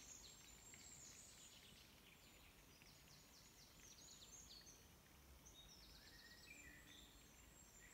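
Near silence in woodland, with faint, high, thin bird chirps and short trills coming and going, thickest in the middle and with a few lower notes near the end.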